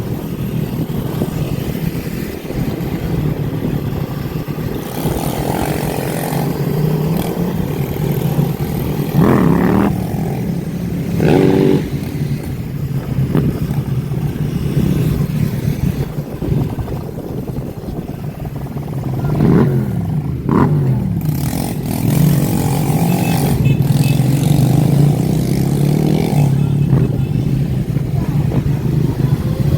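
Dirt bikes and motorbikes revving and passing, their engine pitch rising and falling several times over a steady low drone.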